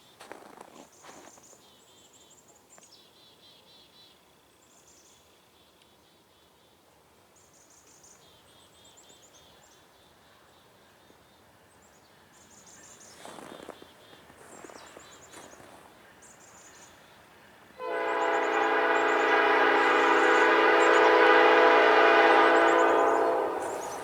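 Freight locomotive air horn, an ES44AC at the head of a CN train, sounding one long chord-like blast that starts abruptly about eighteen seconds in and holds for nearly six seconds. Before it there is only quiet outdoor air with faint high chirps.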